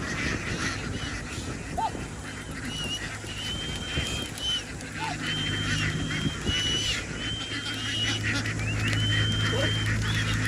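A flock of farmed ducks quacking and chattering together. Short, high, level whistled notes repeat over the flock, and a low steady hum grows louder in the second half.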